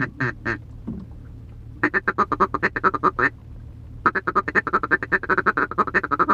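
Duck call blown by mouth: a few short quacks, then two long runs of rapid clipped notes, about eight a second.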